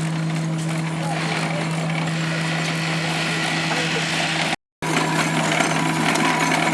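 Machinery running steadily with a constant low hum, cut off for a split second about two-thirds of the way through and resuming slightly louder.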